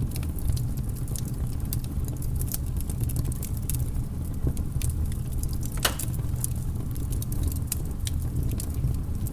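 Wood fire crackling, with many small sharp pops and snaps and one louder pop about six seconds in, over a steady low rumble.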